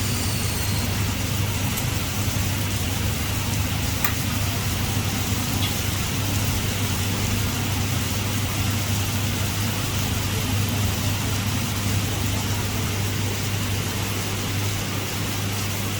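Heavy rain falling steadily, with a constant low hum underneath.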